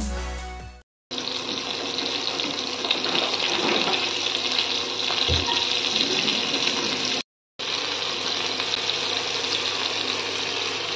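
Marinated chicken pieces sizzling steadily as they shallow-fry in oil in a cast-iron pan; the hiss drops out briefly twice. Background music fades out in the first second.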